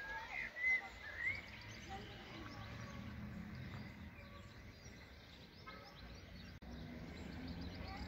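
Birds singing and chirping, with a few louder whistled calls in the first second or so, then fainter scattered chirps over a low, steady background rumble.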